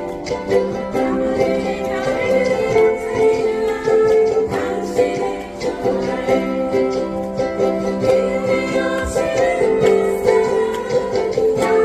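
A ukulele ensemble strumming a song together, with a group of voices singing along.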